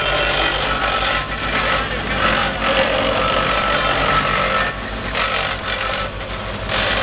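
Diesel engine of a Cat CB-225D vibratory double-drum compactor running steadily, with an even low pulsing throughout and a rougher mechanical rattle above it that rises and falls.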